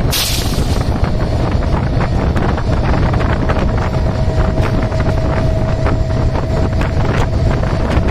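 Meter-gauge passenger train running through at speed: a loud, steady rumble with rapid, irregular clacking of wheels on the rails, and wind buffeting the microphone. A thin steady tone joins about three seconds in and holds to the end.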